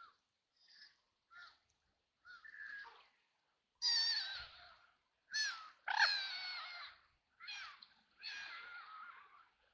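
Ducks quacking: a few faint, short calls, then a run of louder, harsh quacks from about four seconds in.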